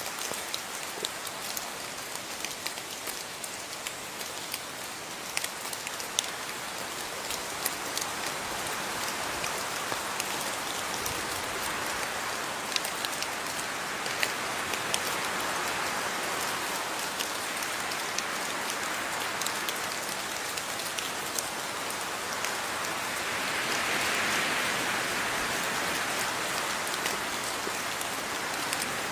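Steady rain falling, a dense hiss with many separate drops ticking on a surface; it swells a little twice, the second time about three-quarters through.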